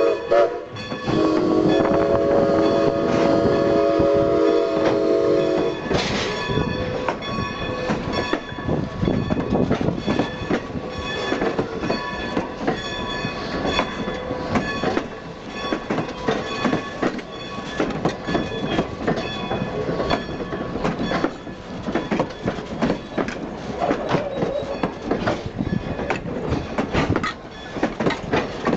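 The whistle of Strasburg Rail Road 2-10-0 steam locomotive No. 90 blowing a long chord that stops about six seconds in. After it, the train rolls by with clattering wheels and some wheel squeal.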